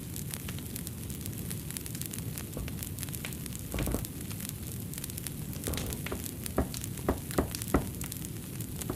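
Fireplace fire crackling: a steady hiss with frequent small crackles, a soft low thump a little before the middle, and a few sharper, louder pops about three-quarters of the way through.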